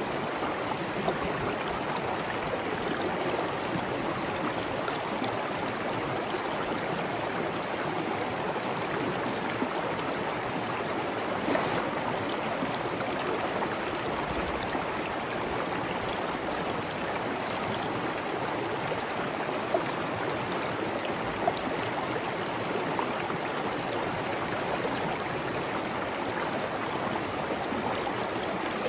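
Steady running water of a stream, flowing and splashing, with a few small brief splashes standing out.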